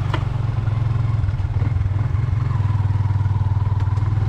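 Small motorcycle engine running steadily at low speed, a continuous low throb with a faint steady whine above it.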